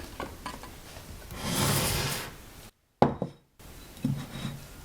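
A spatula scraping through batter in a mixing bowl, then a sharp knock about three seconds in and a softer knock a second later as utensils strike the bowl or counter.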